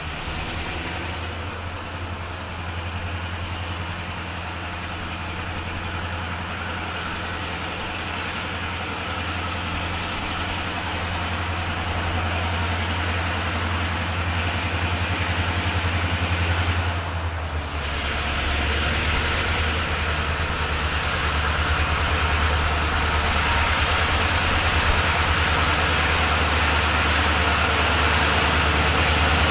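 A vehicle engine running with a steady low drone that grows gradually louder. It drops briefly about two-thirds of the way through, then picks up again.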